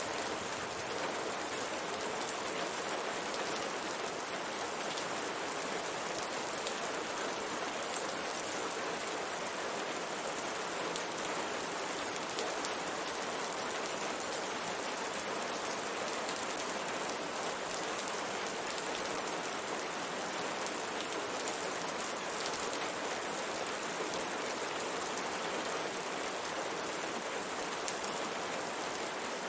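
Steady rain falling on a window, an even hiss with the fine patter of drops on the glass.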